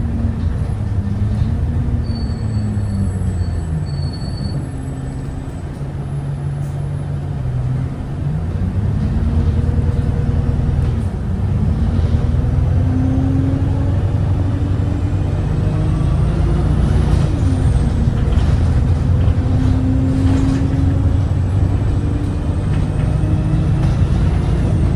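Bus diesel engine, a Cummins ISBe driving a Voith automatic gearbox: its note falls as the bus slows over the first few seconds, then rises again from about eight seconds in, stepping up through gear changes as the bus pulls away.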